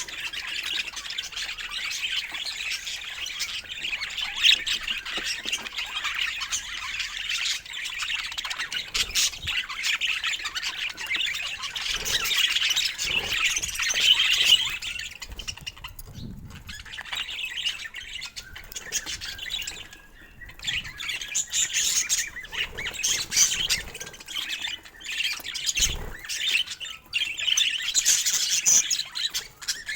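Budgerigars chattering and chirping: a dense, busy warble for about the first fifteen seconds, then more broken chirps and squawks with scattered small clicks.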